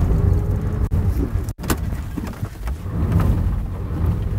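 Sedan engine running under load as the car is driven hard over rough grass and dirt, a deep steady rumble of engine and tyres. The car is running with its battery removed, on the alternator alone. The sound drops out for an instant about a second and a half in.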